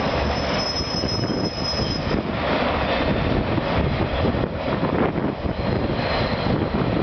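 Freight train cars rolling past on elevated track: a steady rumble and clatter of steel wheels on rail. A thin high wheel squeal comes in from about half a second to two seconds in, and again faintly near the end.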